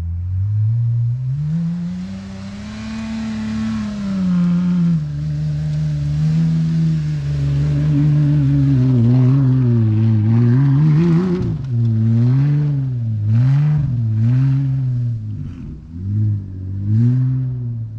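Jeep Gladiator engine running through an exhaust with all three mufflers removed and only a resonated tip. It idles, revs up slowly and holds, then gets a series of quick throttle blips from about halfway through.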